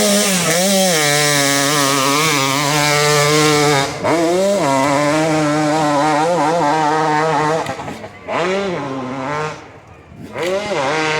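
A 200–250cc dirt bike engine at full throttle climbing a hill, its pitch held high for seconds at a time. It drops off briefly and snaps back up about four seconds in, and again twice near the end.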